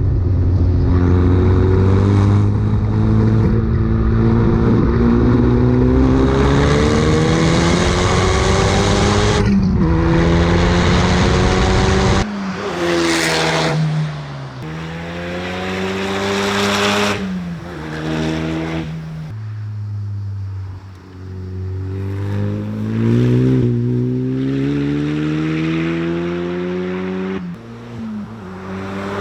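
High-performance car engine and exhaust accelerating hard, the pitch climbing and dropping at each gear change. About twelve seconds in, the deep rumble drops away and the engine is heard in a series of shorter revs, rising and falling in pitch.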